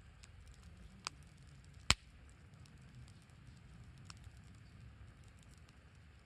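Wood fire burning with faint crackling over a low rumble, and two sharp pops about one and two seconds in, the second the louder.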